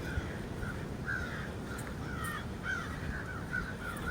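Birds calling: a string of short, repeated calls, several a second at times, over a low steady background noise.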